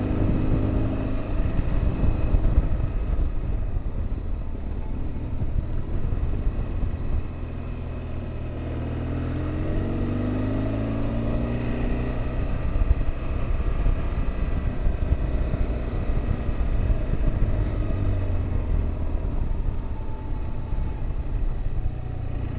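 BMW R1200GS Adventure's boxer flat-twin engine running under way, its note rising and falling with the throttle, over a steady rumble of road and wind noise.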